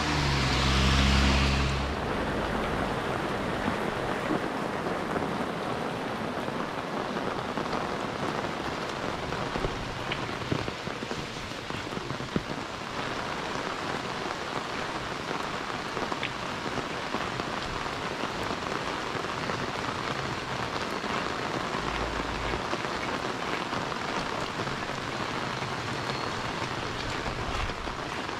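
Heavy rain falling steadily on a wet road and roofs. In the first two seconds a kei car drives past close by on the wet road, its engine and tyre hiss swelling and fading.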